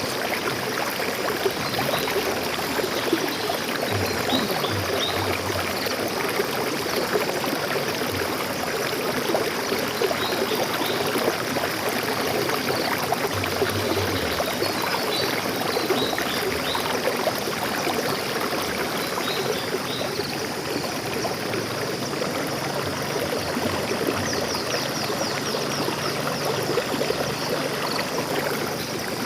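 Water flowing steadily in a stream, with faint birds chirping now and then and a quick high trill about twenty-four seconds in.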